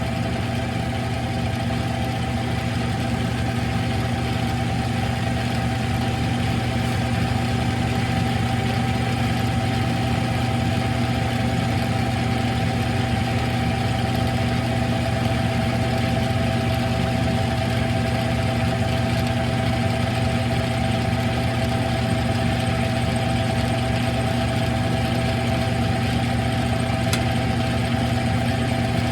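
Smithy CB-1220XL 3-in-1 lathe running steadily under power feed, a constant motor-and-gear hum with a steady whine, as the tool faces a transmission fill plug.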